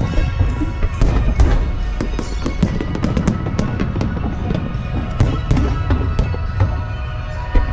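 Fireworks going off in quick succession, sharp bangs and crackles several times a second over a deep booming rumble, with music playing at the same time.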